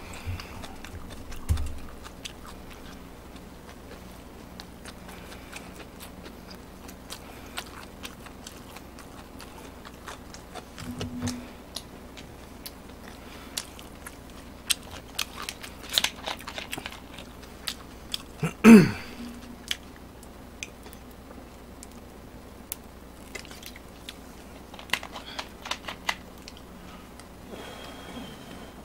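Close-miked chewing of cheese gimbap, with many small wet mouth clicks. About two-thirds through there is one brief, louder sound that falls in pitch.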